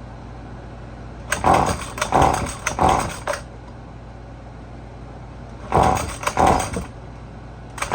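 Husqvarna 128LD string trimmer's small two-stroke engine being pull-started: a quick run of about four recoil pulls, then two more, each a short rough burst of cranking, with the engine not catching. The owner takes it to be flooded.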